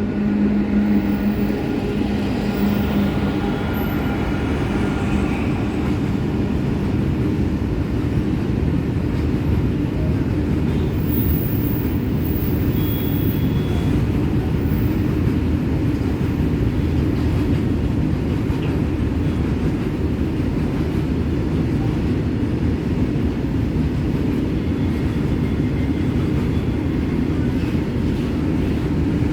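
Freight train hauled by a WAG-7 electric locomotive passing, its wagons rolling over the rails in a steady, loud rumble. A pitched hum sounds over the rumble for the first few seconds and fades out.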